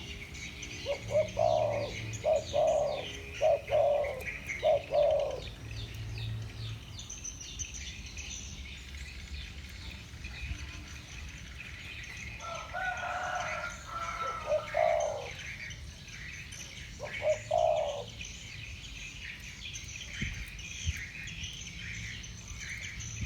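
Spotted doves cooing: a run of about five low coo notes in the first five seconds, another cooing phrase a little past the middle, and a shorter one later on. Continuous high chirping runs underneath.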